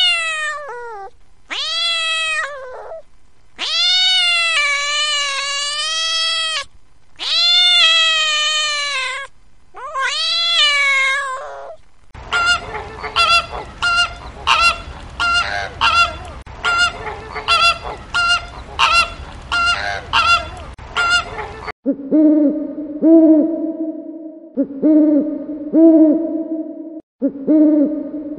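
A run of animal calls in three kinds: first a few long, high calls that rise and fall in pitch, then about ten seconds of quick, short, evenly repeated calls, then long, low, steady hoots that come every couple of seconds.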